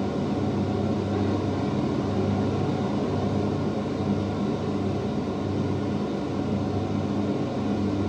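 Steady drone of propeller aircraft engines from a film soundtrack, played through in-ceiling home-theater speakers and picked up by a microphone in the room.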